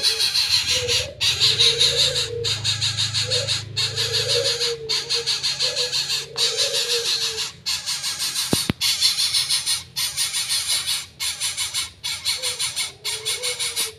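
A young coucal making short, low, wavering calls several times. Under them runs a continuous harsh hiss that breaks off briefly about once a second.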